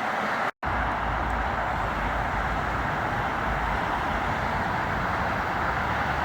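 Steady rumbling vehicle noise, broken by a split-second dropout about half a second in where the footage is cut. After the cut the rumble carries a deeper low end.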